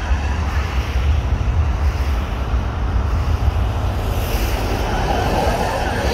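Train running past the track, a steady rumble and rush that swells in the second half, with wind buffeting the microphone.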